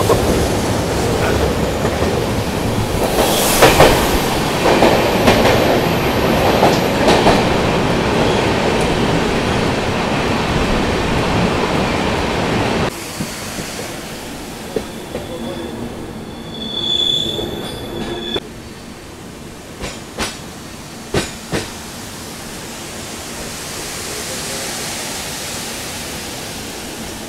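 Passenger express train running on the rails, heard from on board: a steady loud rumble with clacks from the wheels over the track. About halfway through it drops suddenly much quieter, then a brief high wheel squeal and a few sharp clacks follow.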